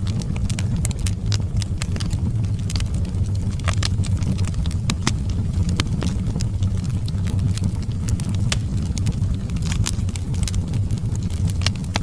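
Wood fire in a fireplace burning, with frequent sharp crackles and pops over a steady low rumble of flames.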